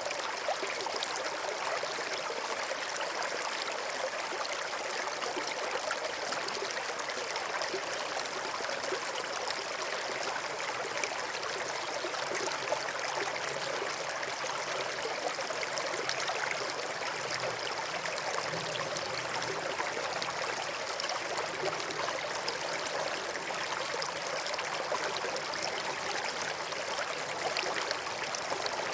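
Small stream flowing steadily over stones, a constant trickling and babbling of water.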